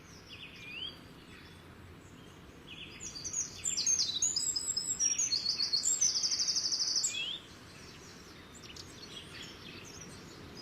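Birds chirping and singing over a steady background hiss, with a loud run of rapid high trills from about three to seven seconds in, then a few scattered faint chirps.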